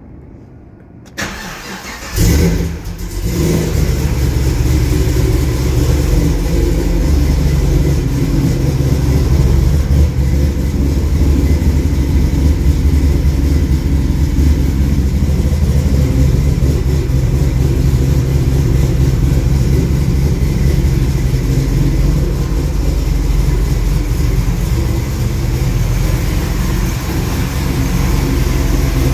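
Cold start of an LSA supercharged 6.2-litre V8 swapped into a VZ R8. The engine is cranked briefly about a second in and catches with a rev flare about two seconds in. It then settles into a steady, loud cold idle.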